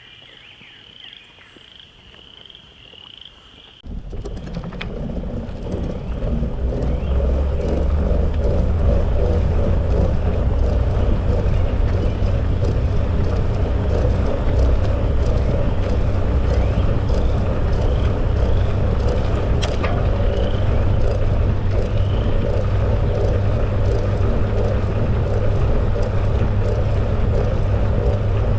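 Frogs calling with high, repeated chirps. About four seconds in, this cuts suddenly to a loud, steady low rumble of wind and riding noise from a moving bicycle, with the frog calls faint beneath it.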